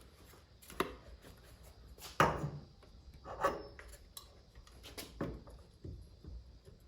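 Irregular knocks and clicks of mirror-bracket hardware being handled and fitted against the truck door, about five distinct taps, the loudest about two seconds in.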